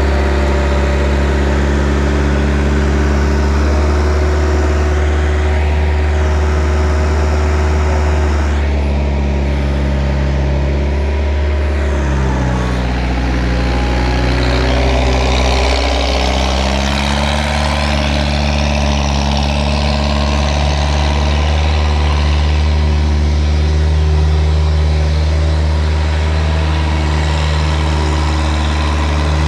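Flatbed truck's engine running steadily under way, its pitch dipping and shifting about twelve seconds in and settling again a few seconds later, as with a gear change or a change in throttle.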